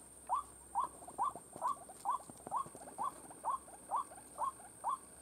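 White-breasted waterhen calling: a steady series of short rising notes, a little over two a second. This is the repeated 'kru-ak' call used to lure waterhens into a trap. A faint steady high whine runs underneath.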